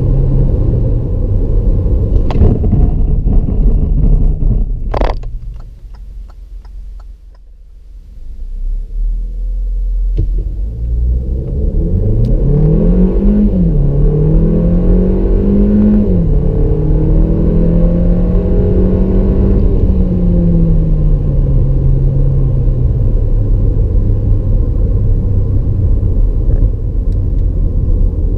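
Hyundai Tucson 1.6-litre turbo four-cylinder engine heard from inside the cabin. At first the note falls away as the driver lifts off, then a sharp click and a brief lull. From about a third of the way in it revs up hard through the gears, its pitch dropping back at two quick dual-clutch upshifts, before easing off to a steady lower note.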